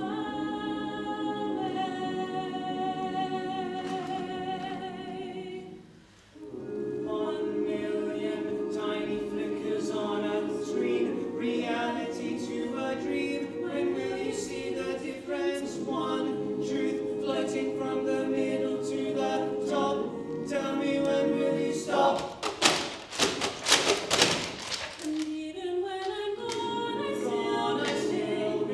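A choir singing unaccompanied in sustained chords, breaking off briefly about a fifth of the way in and then coming back in. A little past two-thirds through, a burst of sharp percussive sounds, the loudest moment, cuts across the singing before the chords resume.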